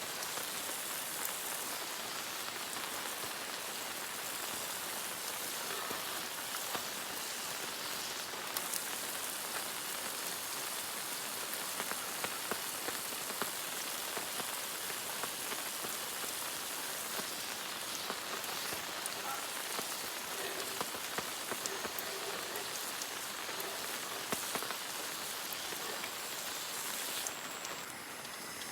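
Steady rain falling, an even hiss made of countless fine drop patters that does not let up.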